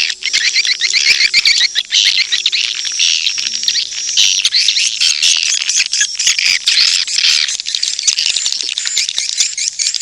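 Swiftlet lure call: a dense, continuous high-pitched chatter of many overlapping swiftlet chirps and twitters, played to attract swiftlets to a nesting house. Faint steady low tones sit underneath early on and again around the middle.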